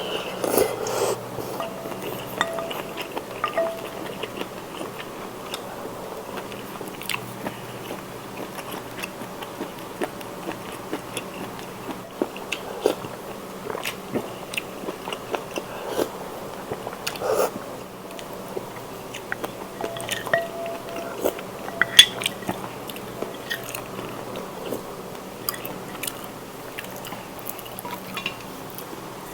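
Close-miked eating of spicy seafood instant noodles: chewing and biting with irregular crunchy, wet mouth sounds.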